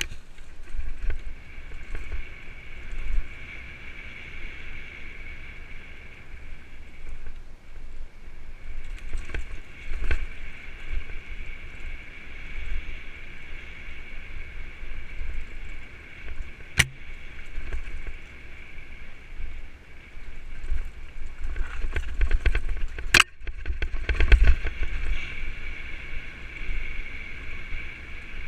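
A mountain bike riding a forest trail, heard from a GoPro mounted on the rider or bike: uneven low rumble from wind and trail bumps, with a steady high-pitched buzz that fades out in the middle and comes back near the end. A few sharp knocks sound, one about two-thirds of the way through and a louder one a few seconds later, amid a stretch of rapid ticking.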